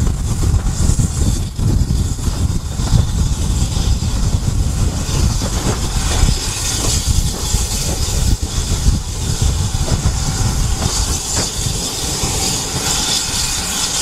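A train running on the rails: a continuous low rumble, with a high hiss that grows stronger about five seconds in.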